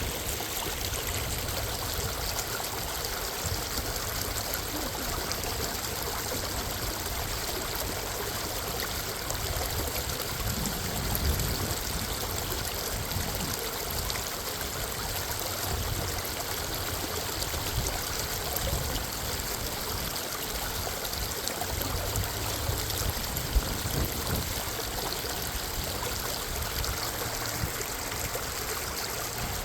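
Minnehaha Creek's water running steadily, an even, continuous wash of stream noise.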